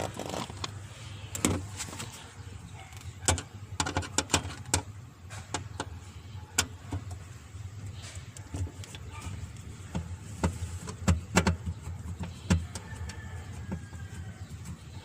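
Irregular clicks and taps of a hand tool on the screws of a car's fuel pump access cover as they are worked loose, over a steady low hum.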